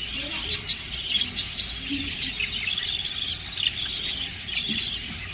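Pet budgerigars chirping and chattering, a continuous stream of rapid, high, short chirps and trills.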